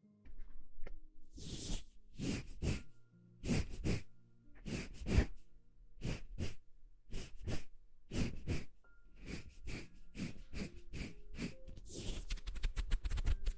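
ASMR breathy puffs of air blown close to the microphone, irregular and about a quarter second each, some in pairs, over soft background music. Near the end a fast fluttering run of close clicks begins.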